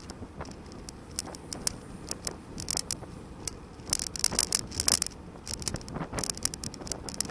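Steady road and wind rumble with many irregular sharp clicks and rattles, thickest about four to six and a half seconds in.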